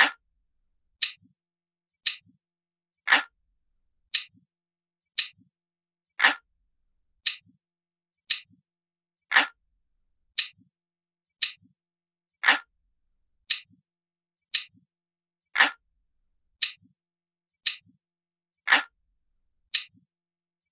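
Glass-like clock tick sound effect ticking about once a second, every third tick fuller than the two between, each followed by a faint low knock.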